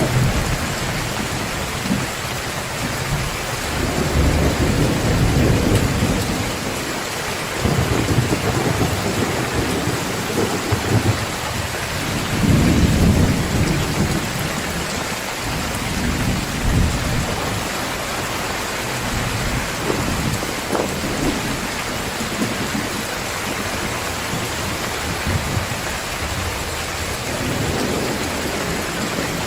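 Heavy rain pouring steadily, with low rolling thunder rumbling several times; the loudest rumble comes a little before halfway.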